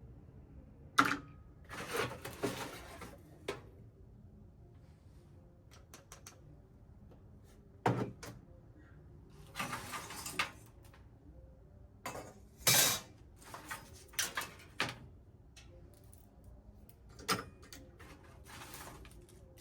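Hard parts being handled on a work surface: scattered sharp knocks and clicks with a light clatter, and several short scraping or brushing sounds in between.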